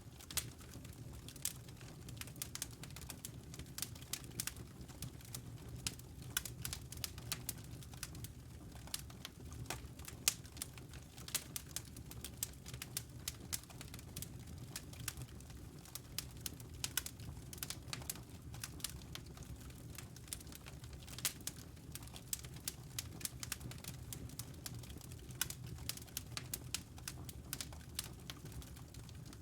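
Wood fire crackling in a fireplace: irregular sharp pops and snaps scattered throughout, over a steady low rumble of the burning fire.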